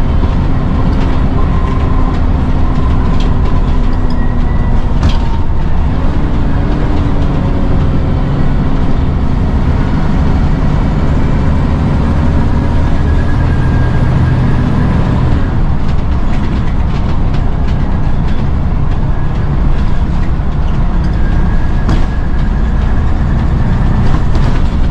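Scania N94UD Omnidekka double-decker bus running under way, a steady low engine and road rumble with rattles. The engine note climbs and then drops twice, at gear changes.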